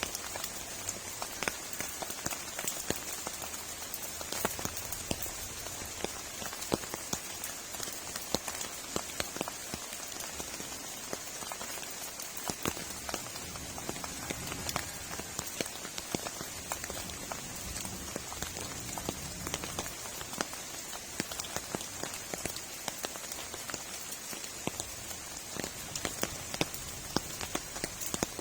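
Heavy rain falling steadily, with a dense scatter of individual drops ticking sharply on a nearby surface.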